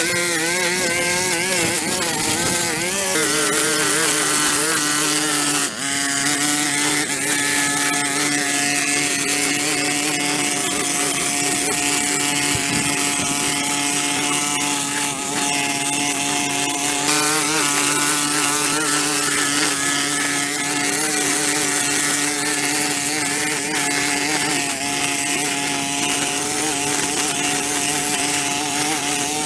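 A small petrol engine, like that of a handheld power tool, running continuously. Its pitch wavers and shifts a few times, with a brief dip about six seconds in.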